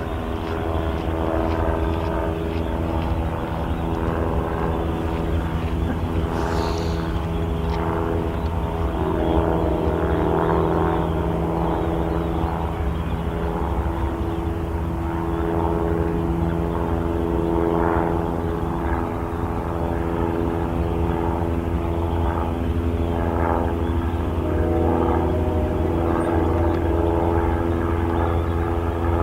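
A steady, unbroken engine drone with a low hum and several constant tones that do not change in pitch.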